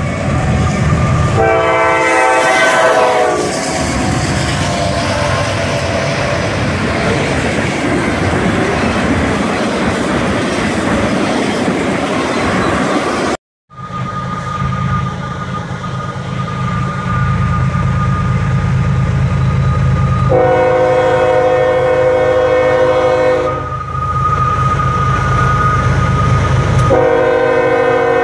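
Diesel freight locomotives passing with a train: a short horn blast, then the steady rumble and wheel noise of the train. After a break, a Norfolk Southern diesel locomotive's engine rumbles as it approaches, and it sounds two long chord horn blasts, the second near the end.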